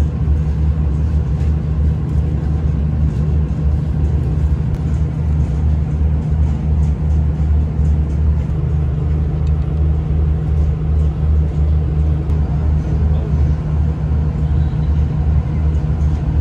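Steady low rumble and drone inside a moving diesel passenger train carriage, the low hum pulsing slightly as the train runs along the line.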